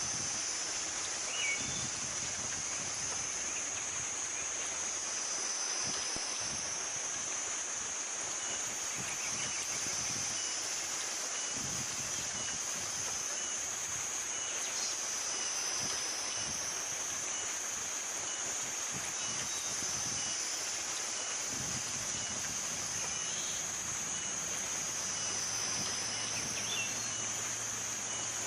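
A steady, high-pitched insect drone that swells and eases every five or six seconds, with a few brief bird chirps.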